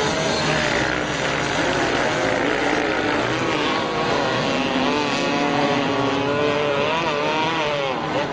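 Several racing motorcycle engines running hard, their pitch rising and falling as they rev and shift.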